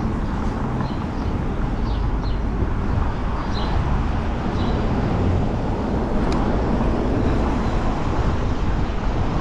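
Steady rumble of wind on the microphone and city traffic heard from a moving bicycle, with a single sharp click about six seconds in.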